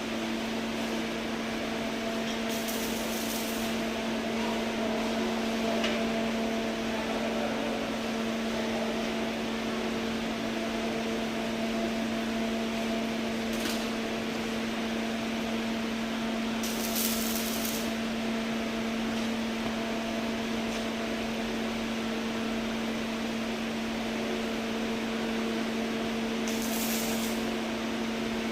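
Welding machine running with a steady electrical hum over an even hiss, broken by four brief, sharper hisses.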